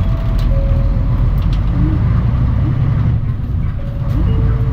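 Mitsubishi Fuso Aerostar KC-MP717 city bus heard from inside the cabin, its engine running with a steady deep drone that dips slightly about three seconds in.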